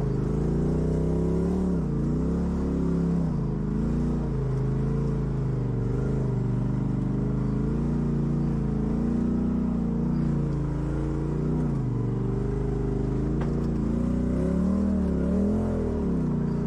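Off-road vehicle engine running under load on a rock trail, its revs rising and falling again and again as the throttle is worked.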